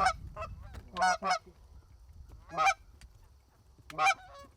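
Canada geese honking, a series of short, sharp honks at varying pitch, roughly one a second with some in quick pairs, as the flock comes in overhead.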